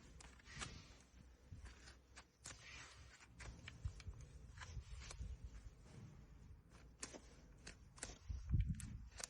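Hoof trimming on a horse: scattered short scrapes and clicks of tools working the hoof over a low rumble, with a heavier thump about eight and a half seconds in.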